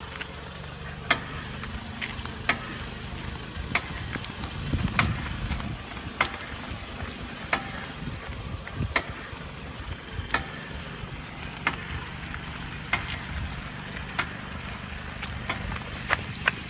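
Car's rear passenger-side wheel knocking sharply and regularly, about once every 1.3 seconds, over a low road and engine rumble while rolling slowly. The knock comes from the rear drum brake, a fault the dealer found was not a safety issue.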